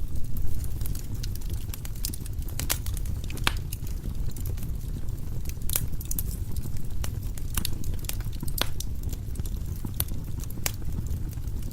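Firewood burning in a fireplace: a steady low rumble of the flames with irregular sharp crackles and pops from the burning logs, several a second at times.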